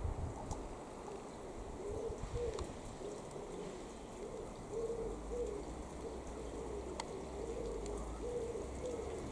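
Airbus A350 cabin noise at cruise, a steady low rush. From about two seconds in, a short rising-and-falling tone repeats over and over.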